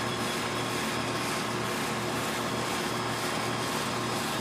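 Steady mechanical whoosh with a faint constant hum, unchanging throughout.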